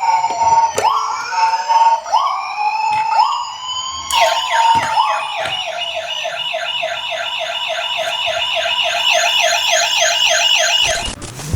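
Emergency-vehicle sirens: first a rising wail repeated several times, then about four seconds in a rapid yelp of about four cycles a second, which cuts off shortly before the end.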